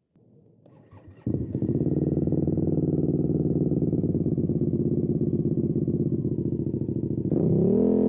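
Motorcycle engine starting: a faint short clatter, then the engine fires about a second in and idles steadily. Near the end it is revved up and holds at a higher speed.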